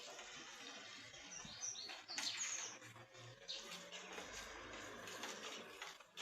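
Steady rain with drops tapping, and a bird giving a few short chirps about two seconds in.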